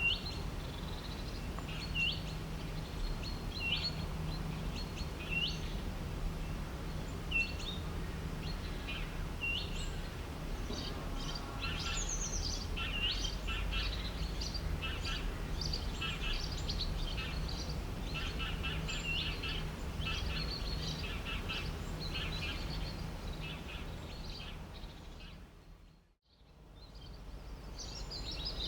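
Wild birds calling and singing over a steady low rumble. For the first several seconds one short upward-hooked chirp repeats every second and a half or so; then several birds join in with rapid chirping series. Near the end the whole sound fades out to silence and fades back in.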